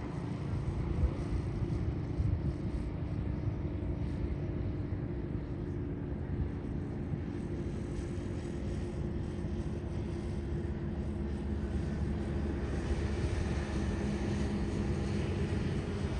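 Jet airliner engines heard from the field, a steady low rumble with a steady hum, the hiss and whine growing louder over the last few seconds.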